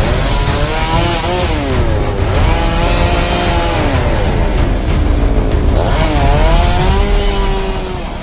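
Two-stroke chainsaw engine revving up and down while cutting: its pitch rises and falls repeatedly over a loud, noisy low rumble.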